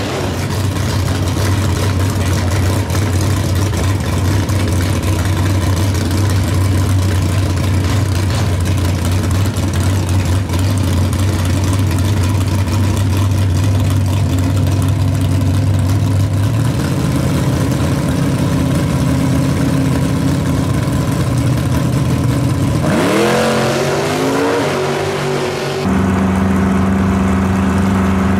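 Drag-race cars' engines idling loudly at the starting line; about two-thirds of the way through, the engine note steps up. Near the end the revs climb in rising sweeps as the cars launch. Then the sound cuts suddenly to another engine idling steadily.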